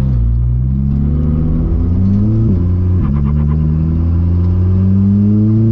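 Car engine accelerating, its pitch climbing steadily, with a sudden drop in pitch about two and a half seconds in, like a gear change, then climbing again.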